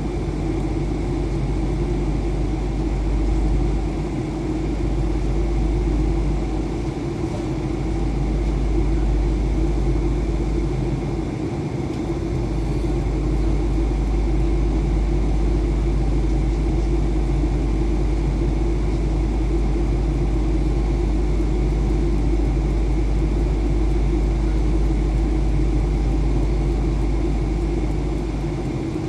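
Airbus A320 cabin noise: a steady low rumble of the engines and airflow with a constant hum, rising and falling slightly in level now and then.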